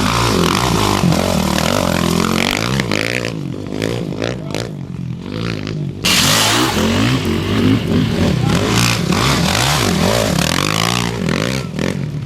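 Off-road racing motorcycle engines revving up and down, pitch rising and falling. About halfway through the sound jumps abruptly to a louder, harsher stretch.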